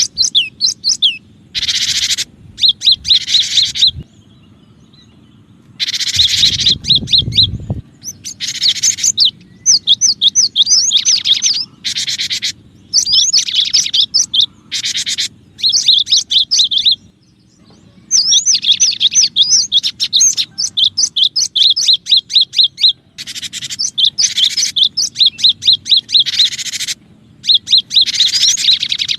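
Cinereous tit (gelatik batu) calling in a bird-lure recording: quick runs of repeated high chirps mixed with harsh buzzy churrs, coming in bursts a second or two long with short gaps between. A faint low hum lies underneath, with a brief low rumble a little after six seconds in.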